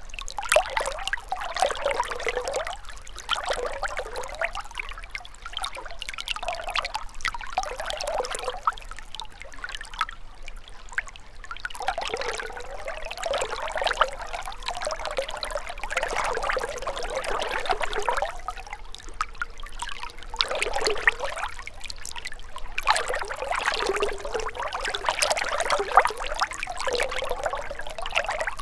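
A gentle river's water running steadily, its rush swelling and easing every few seconds.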